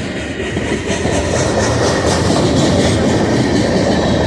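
Freight cars of a passing Canadian National train rolling by: a steady rumble of steel wheels on the rails, with faint clacking.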